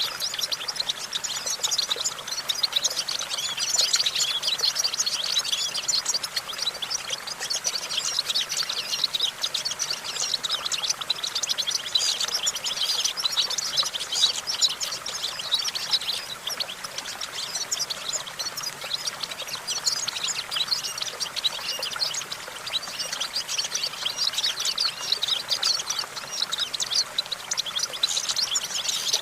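European goldfinch singing: a continuous run of rapid, high twittering and trilled notes.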